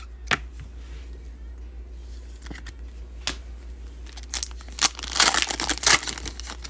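A trading-card pack wrapper being torn and crinkled while cards are handled and slid against each other, with scattered clicks and the crinkling thickest about five seconds in. A low steady hum runs underneath.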